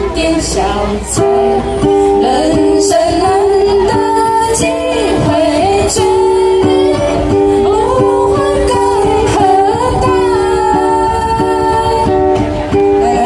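Ukulele strummed in a steady rhythm, accompanying sung melody with female voices.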